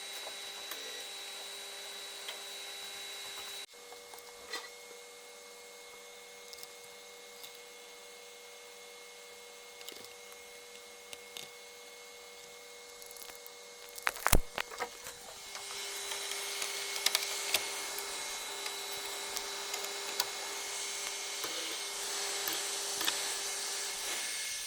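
Hand work on a motherboard during a southbridge chip replacement: scattered clicks and scraping, a sharp clatter of clicks near the middle, then a steady hiss from about halfway through.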